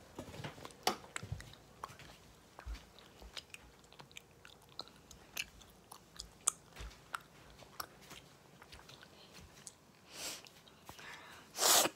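Gum chewing close to the microphone: scattered wet clicks and smacks. Two short noisy rushes near the end, the second louder.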